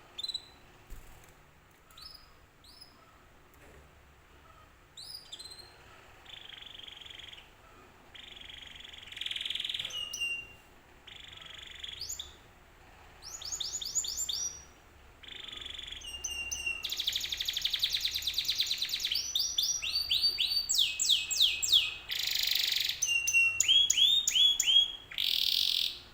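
Domestic canary singing. Scattered short chirps and down-slurred whistles come first, then from about halfway it builds into a loud, nearly continuous song of fast trills and rolls.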